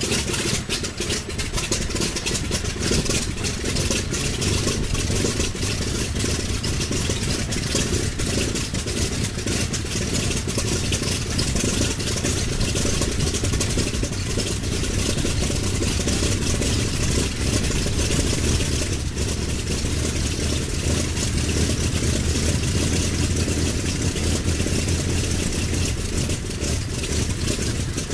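Douglas A-26B Invader's right-hand Pratt & Whitney R-2800 radial engine running steadily on the ground after starting, with its low drone growing a little stronger in the second half.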